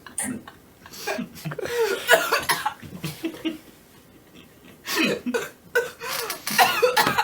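Spluttering coughs and stifled laughter from people holding mouthfuls of water, in separate bursts of choking and snorting with the loudest near the end; the sound cuts off abruptly at the end.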